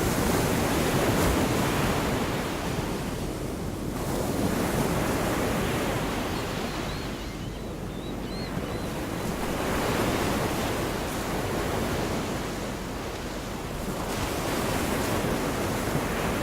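Gulf of Mexico surf: small waves breaking and washing up the beach, swelling and easing every few seconds.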